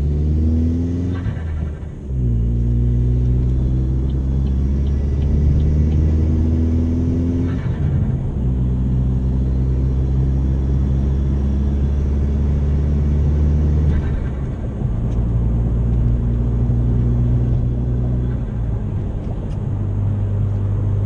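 Chevy Sonic's 1.4-litre turbocharged Ecotec four-cylinder accelerating hard through the gears, its note rising in pitch then dropping at three upshifts, before settling to a steady cruise near the end.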